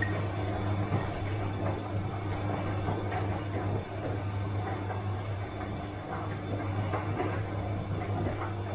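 Bosch washing machine running: a steady low hum under an uneven rushing noise with faint irregular knocks.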